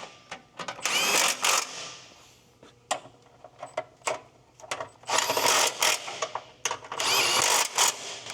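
Handheld power tool driving bolts in three short bursts, its motor whining up in pitch at each trigger pull, with light metallic clicks and taps between the bursts.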